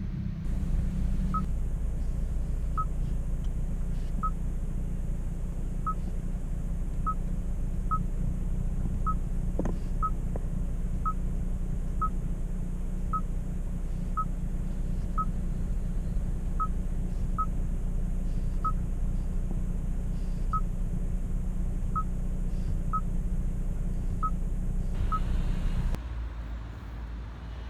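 Hyundai i30 N's 2.0-litre turbocharged four-cylinder running steadily with an even low drone, while short high beeps sound about once a second. The beeps stop and the drone falls away about a second before the end.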